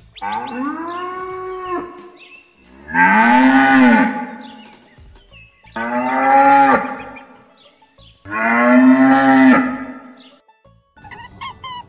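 Cow mooing four times: long moos of one to two seconds each, each rising and then falling in pitch, with short pauses between them. Near the end a quick run of short repeated notes begins.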